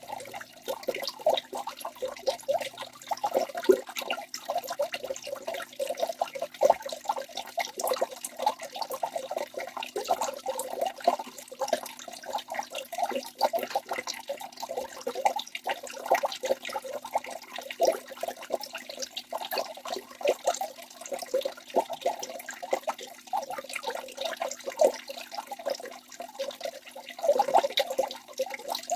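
Waterfall water splashing and gurgling without a break, a dense, busy patter of small splashes over a steady hiss.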